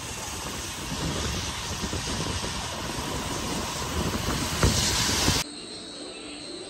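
Steady rushing noise of a train in motion, with one sharp knock near the end. It cuts off suddenly about five seconds in, leaving quiet room tone.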